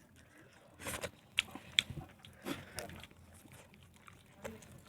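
A person eating close to the microphone: wet chewing with a series of sharp lip smacks and mouth clicks at irregular intervals.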